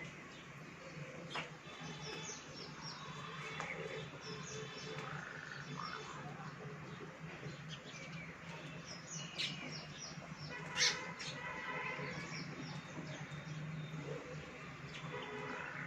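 Baya weavers chirping and chattering in many short, high calls, the sharpest about eleven seconds in, over a low steady hum.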